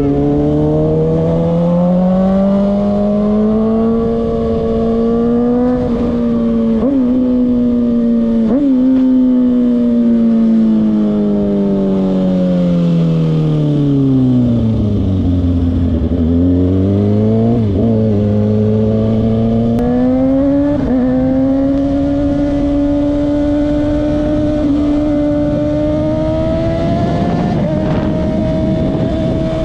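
Kawasaki ZX-6R sport bike's inline-four engine under way. Its pitch climbs with short dips at gear changes about 7 and 9 seconds in, then falls steadily as it slows to a low about halfway through, and climbs again through further shifts.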